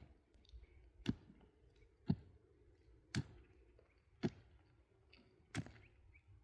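Pickaxe blows on rock at a steady pace, six sharp strikes about a second apart.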